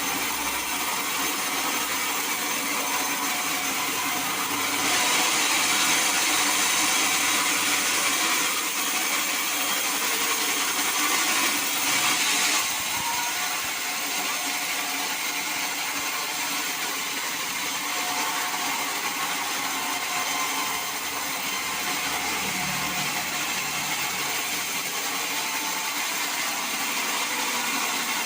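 Sawmill saw running through teak timber, a steady high-pitched hiss of cutting that grows louder for several seconds from about five seconds in, then settles back to a steady run.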